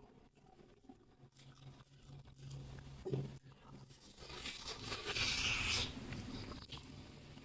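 Close-miked eating sounds: a person chewing and biting food, with scattered small clicks and a louder hissy stretch of about a second and a half just past halfway.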